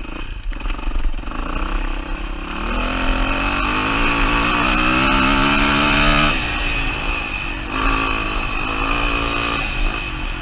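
2007 Yamaha WR450's single-cylinder four-stroke engine running under throttle, revs climbing over a few seconds, then falling off suddenly about six seconds in, and picking up again briefly before easing off near the end.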